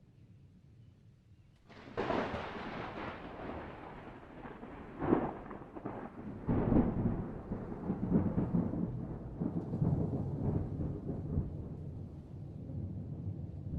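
Thunder: a sharp crack about two seconds in, then a long rolling rumble with further loud peaks around five and seven seconds in.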